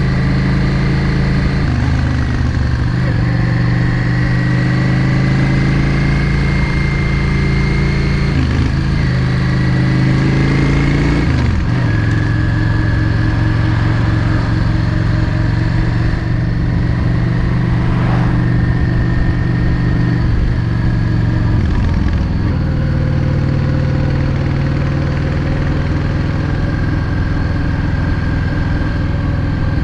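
Yamaha XVS650 Drag Star's air-cooled V-twin engine running steadily while riding, heard from on the bike. The engine note dips and picks up again three times: about 9 seconds in, about 11 seconds in, and about 22 seconds in.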